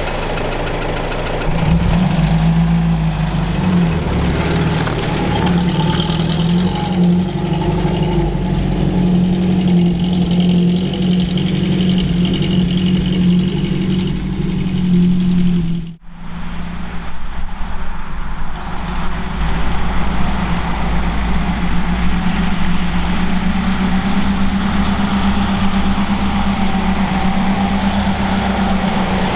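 UAZ 469's four-cylinder petrol engine running steadily off-road, with a brief break in the sound about halfway through before it carries on.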